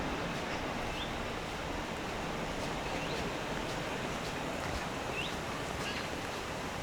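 Steady outdoor background rush with a few short, high rising chirps, one about every two seconds.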